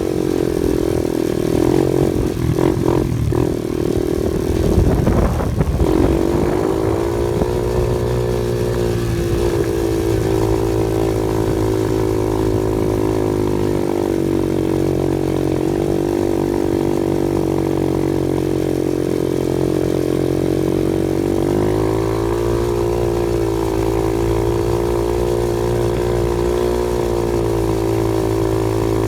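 Off-road vehicle engine running steadily, its pitch dipping and climbing again twice, with a rough, knocking stretch in the first few seconds.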